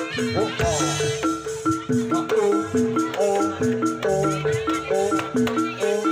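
Jaranan gamelan music: tuned gong-chime percussion repeats a quick, even pattern of notes, with a wavering melody line over it.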